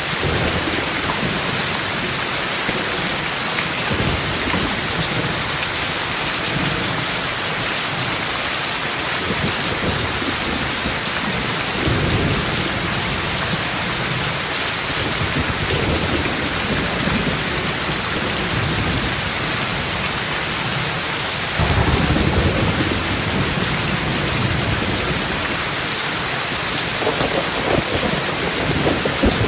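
Heavy rain falling steadily in a constant hiss, with repeated low rolls of thunder. The loudest rumble comes about two-thirds of the way through.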